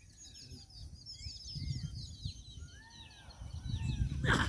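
Small birds chirping: quick runs of short, high, falling chirps, then a few lower swooping calls. Just before the end comes a brief, louder rush of noise.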